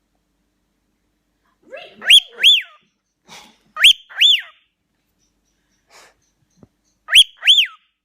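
Cockatiel whistling loudly: three pairs of clear up-and-down whistled notes, the first about two seconds in, with a little soft chatter between them.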